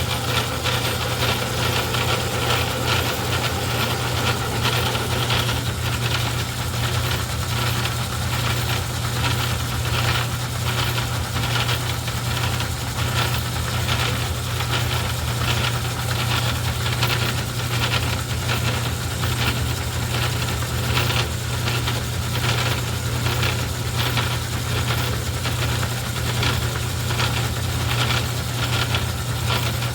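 Craftsman 109 metal lathe running steadily, its motor humming under a fast, continuous rattle from the drive.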